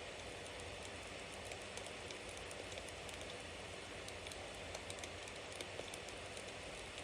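Bonfire burning steadily: a constant hiss and rush of flames with many small crackles and pops from the burning wood, a few slightly louder pops about five seconds in.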